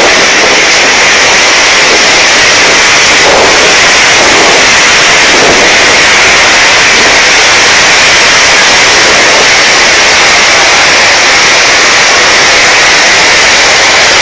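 Typhoon Haiyan's wind blowing hard, with a loud, steady rush of noise that never lets up.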